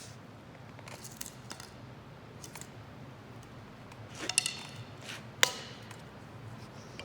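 Wood fire burning in a homemade can-built solo stove: scattered sharp snaps and clicks over a low steady rush, the loudest snaps about four and a half and five and a half seconds in.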